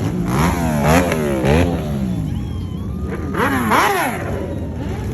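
Motorcycle engines revving in quick throttle blips, the pitch rising and dropping sharply several times in the first two seconds and again about three and a half seconds in, over a steady idle rumble.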